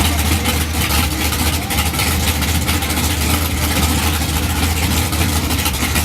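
A large engine running steadily with a heavy low rumble, under a loud, even noise.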